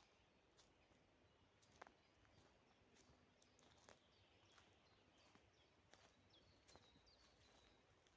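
Near silence in a forest: a few faint scattered clicks, and from about six seconds in a thin, high bird whistle held for a second or so.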